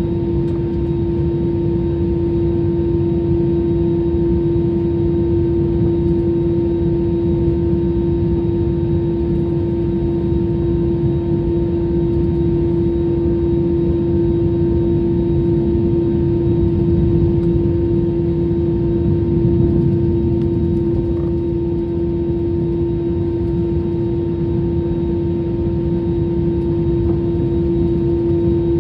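Airliner jet engines running steadily, heard from inside the passenger cabin as a constant low rumble with a strong steady hum running through it.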